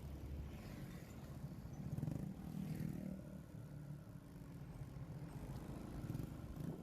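Motorcycle engine running while riding, getting louder about two seconds in and easing off again a second later.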